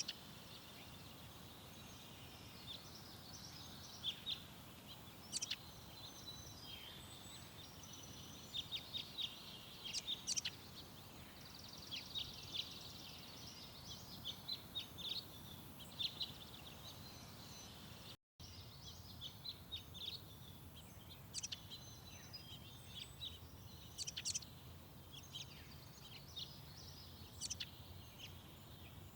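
Garden songbirds chirping and calling: many short, high chirps and trills, some overlapping, over a steady low background rumble. The sound cuts out for a moment about two-thirds of the way through.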